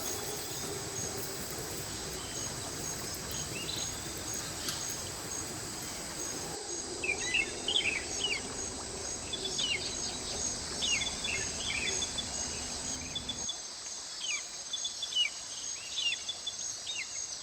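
Insects trilling in a steady, rapidly pulsing high buzz, with birds chirping in short calls from about halfway through, over the hiss of a mountain stream that drops away about two thirds through.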